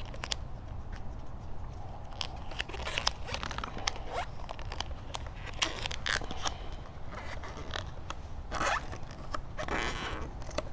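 Vinyl wrap film being peeled off a motorcycle's plastic body panel by hand: an irregular, crackling, tape-like ripping with a few louder stretches of tearing.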